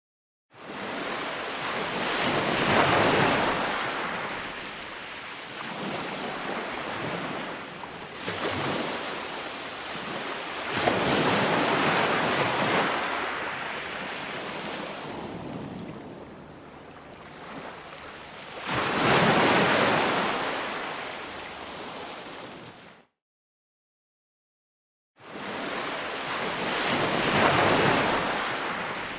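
Ocean surf: waves swell up, break and wash back in slow surges about every eight seconds. The sound drops to dead silence for about two seconds near the middle-to-end, then comes back.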